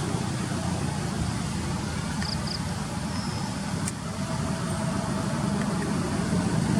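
Steady noise of road traffic and running vehicle engines, with two faint short high chirps about two seconds in.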